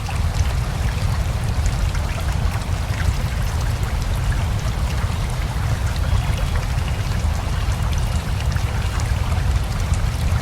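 Steady rushing of a river with a deep rumble, mixed with falling rain whose drops make many scattered ticks.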